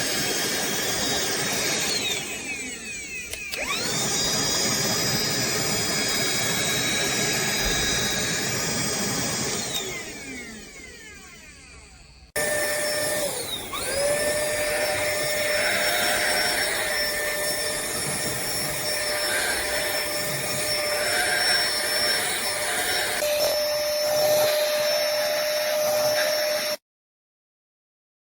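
Cordless handheld vacuum's motor running with a steady high whine. About three seconds in it dips in pitch and spins back up, and it winds down around ten seconds in. It starts up again with a rising whine a second or so after an abrupt break, runs steadily, and cuts off suddenly near the end.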